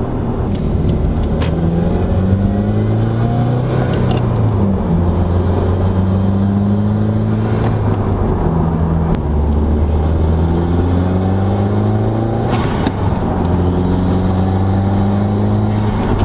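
2017 Subaru WRX turbocharged 2.0-litre flat-four, fitted with a Cobb Big SF intake, accelerating through the gears. The engine note climbs in each gear and drops back at three shifts, with the loud intake sound of the new intake plainly heard.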